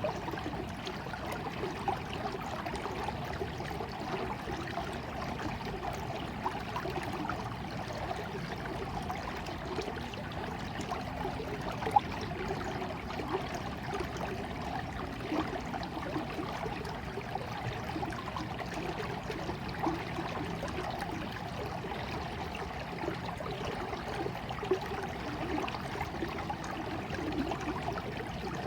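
Small stream of water trickling and gurgling steadily, with scattered brief plinks of water, one sharper than the rest about twelve seconds in.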